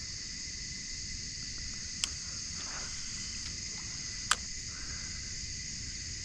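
Steady high-pitched chorus of insects, with two sharp clicks about two seconds apart.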